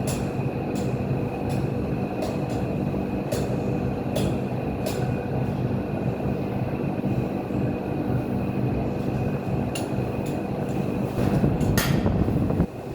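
A steady mechanical rumble with a low hum and scattered sharp clicks. It gets louder about eleven seconds in, then drops off suddenly just before the end.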